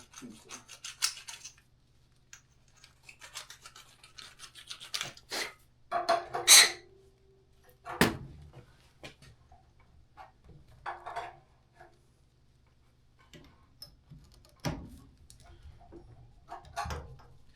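Irregular rubbing and scraping of hands-on work, broken by a few sharp knocks, over a faint steady low hum.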